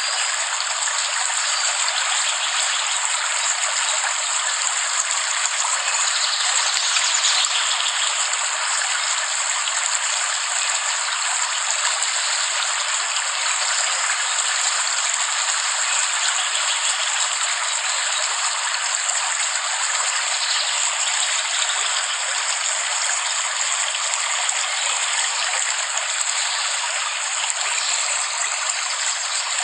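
Steady heavy rain, an even hiss made of countless fine drop impacts, with no low rumble under it.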